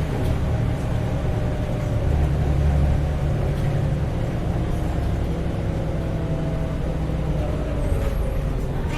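Heuliez GX317 LPG city bus heard from on board, running: a steady low engine drone with a whining driveline tone whose pitch sags slightly in the second half.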